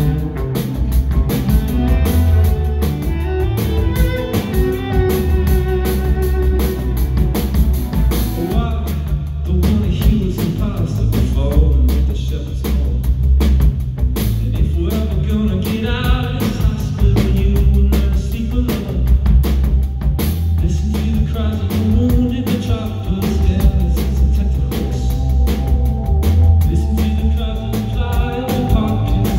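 Live band playing a rock song with drum kit and guitar, a melodic line held above a steady beat.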